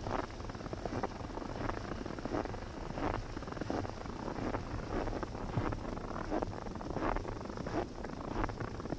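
Footsteps crunching through snow at a steady walking pace, about three steps every two seconds. Wind buffets the microphone with a constant low rumble.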